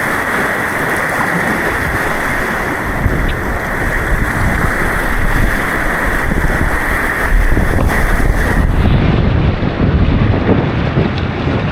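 Rushing white water on an artificial whitewater course, with wind buffeting the action camera's microphone; the low rumble grows heavier in the second half, and the high hiss drops away suddenly about nine seconds in.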